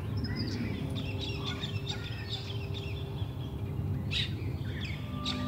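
Birds chirping: many short chirps and calls in quick succession over a low, steady background rumble.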